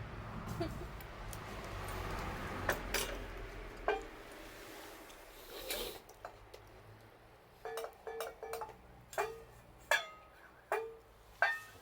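Light metal clinks and taps, like utensils against cookware: a rushing noise with a few sharp clicks in the first half, then a quick run of short ringing clinks about two a second.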